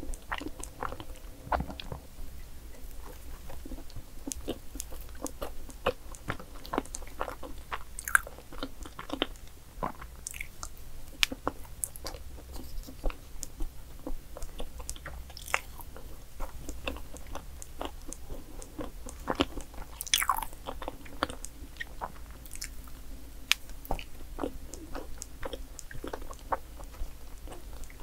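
Close-miked eating of chocolate cake: chewing with many small wet clicks and smacks of the mouth. A wooden spoon digs into and scoops the cake now and then.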